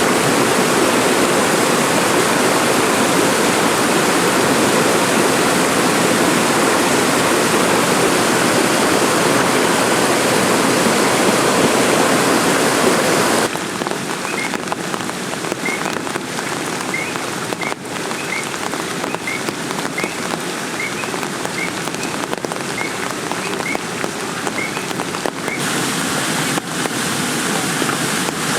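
Heavy rain falling steadily. About halfway through it cuts abruptly to slightly quieter rain with sharp drips and a faint short chirp repeating every second or so.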